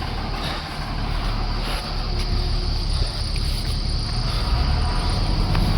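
Low, steady vehicle engine rumble from a slow-moving traffic jam on a slippery road, with a faint high insect chirring above it.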